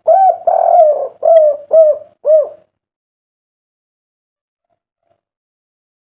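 Spotted dove (derkuku) cooing loudly: one phrase of about six mellow, arching coo notes over roughly two and a half seconds, then it stops. This is the 'kuk 3' song type that keepers breed and train these doves for.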